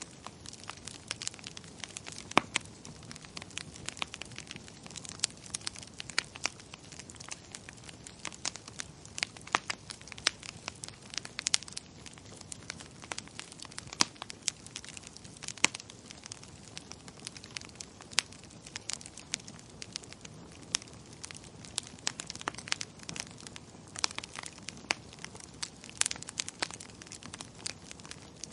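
Wood fire crackling in a fireplace: a steady stream of irregular sharp pops and snaps over a soft, even hiss of burning.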